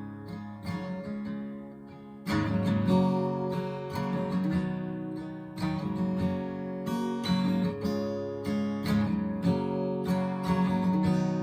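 Acoustic guitar strumming chords in an instrumental break, with no singing. It is soft for about the first two seconds, then strums more fully.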